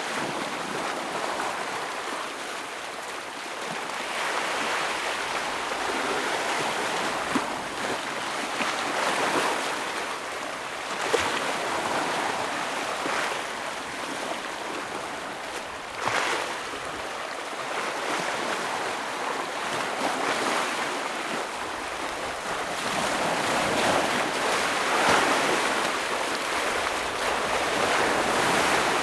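Ocean waves breaking and washing over shoreline rocks: a steady rush that swells and eases every few seconds, with a few brief sharp slaps.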